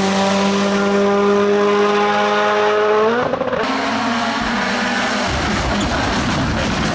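Rally car engine held at steady high revs for about three seconds, then the revs rise briefly and drop away, giving way to a rough, noisy rush of tyres skidding on the road surface.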